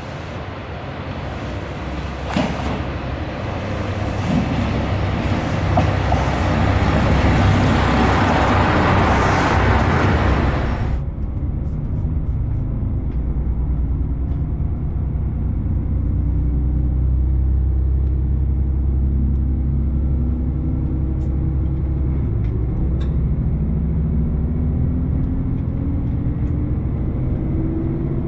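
JR Shikoku 2700 series diesel railcar in motion: loud rushing rail and wind noise that stops abruptly about eleven seconds in, then a steady engine drone whose pitch climbs slowly as the train gathers speed.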